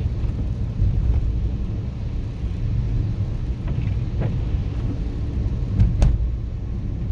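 Inside a moving car's cabin on a wet road: the engine and tyres give a steady low rumble, with a sharp knock just before six seconds in.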